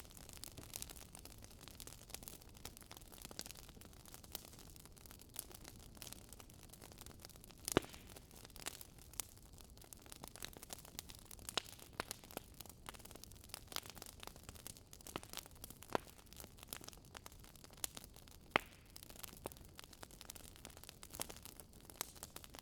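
Wood fire crackling: irregular sharp pops and snaps over a faint steady hiss, with a few louder pops here and there.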